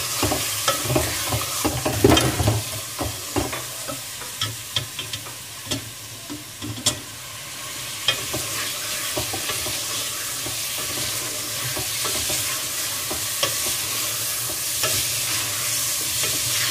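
Chicken pieces frying and sizzling in hot oil with onions and ginger-garlic paste in an aluminium pot, being stirred and turned with a wooden spatula. Over the first half, frequent knocks and scrapes of the spatula against the pot. After that, a steady sizzle.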